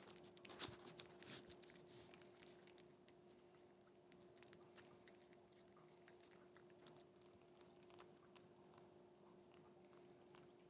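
Faint chewing and crunching, a cat eating. The small crunches are thickest in the first couple of seconds, then thin to scattered clicks over a steady faint hum.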